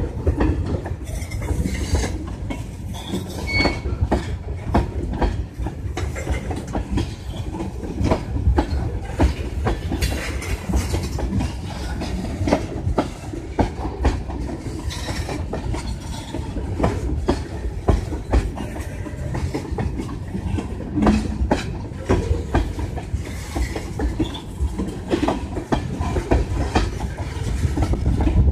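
Freight train of tank cars rolling past close by: a steady low rumble of steel wheels with a clickety-clack and many knocks as the trucks pass over the rail joints, and a brief faint wheel squeal a few seconds in.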